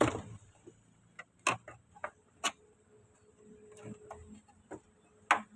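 About eight sharp clicks and taps at irregular intervals from handling a washing machine's water level sensor.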